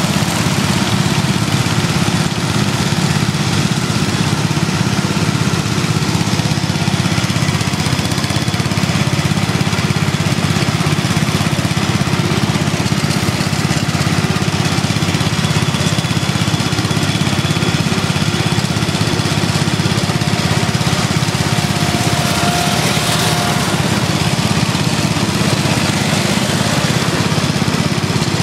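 Small lawn and garden tractor engines running steadily, with no break or change in the engine sound.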